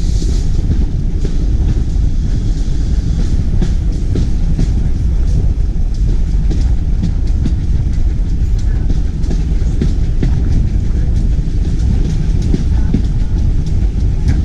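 Carriage of a steam-hauled passenger train running along the line, heard from an open window: a steady low rumble with frequent irregular clicks of the wheels over the rail joints.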